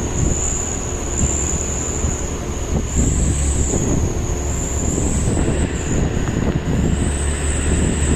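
Truck running on the road: a steady low engine and road rumble, with a thin high whine over it throughout.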